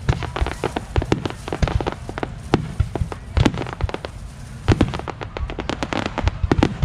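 Aerial fireworks shells bursting in quick, irregular succession: many sharp bangs and pops a second over a low rumbling boom, with no pause.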